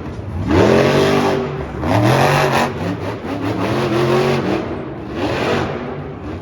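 Zombie monster truck's supercharged V8 engine revving hard in about four surges, its pitch climbing and falling with each throttle blip.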